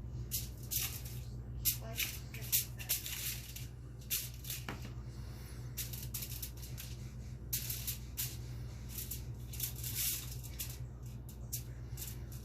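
Aluminum foil crinkling and crackling in irregular bursts as a cat walks and plays on it, over a steady low hum.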